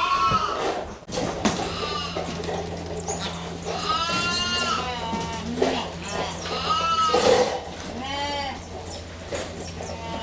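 Young dairy calves bawling again and again, with several calls overlapping. A steady low hum runs underneath from about a second in.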